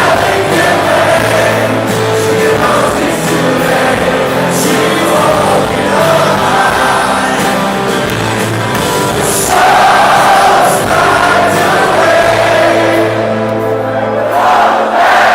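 Live rock band playing while a large crowd sings along loudly, many voices together like a choir over the band.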